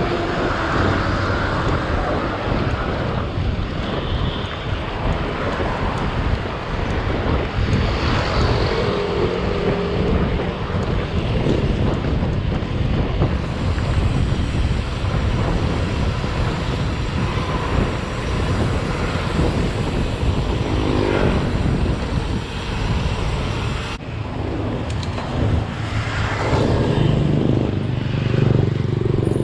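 Wind rushing over the microphone of a camera on a moving bicycle, with road traffic passing. A motor vehicle's engine drones more strongly near the end.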